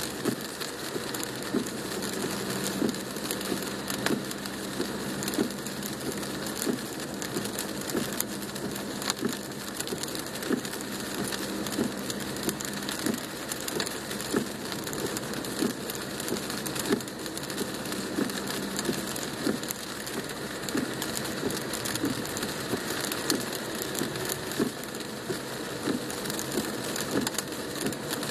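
Rain drumming on a car's roof and windshield, heard from inside the cabin: a steady hiss dotted with many sharp individual drop impacts. A low steady hum underneath stops about two-thirds of the way through.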